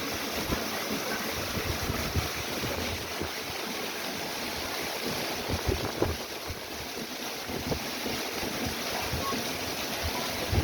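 Heavy rain pouring steadily, with gusts of wind buffeting the microphone.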